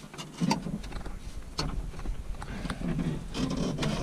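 Scattered knocks and clunks of metal parts on a tractor being worked by hand, as a stuck linkage rod is pulled and wiggled.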